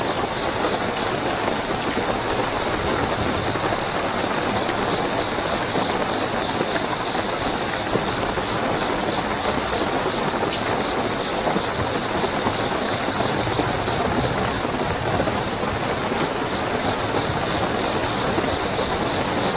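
Steady heavy rainfall with a continuous high-pitched cricket trill running through it.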